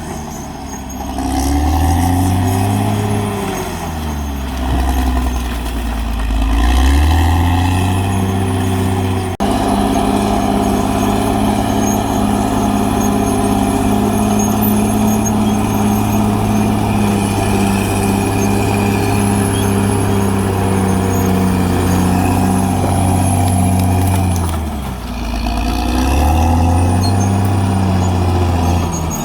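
Caterpillar D6R XL bulldozer's diesel engine working, its pitch repeatedly rising and falling as it revs up and drops back. About nine seconds in the sound changes abruptly to a steady high-revving run that holds for about fifteen seconds, then falls away and rises and falls again near the end.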